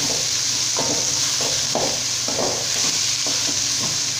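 Onion, tomato, curry leaves and dried red chillies sizzling in hot oil in an aluminium kadai, with a spoon stirring and scraping round the pan in repeated strokes, about two a second.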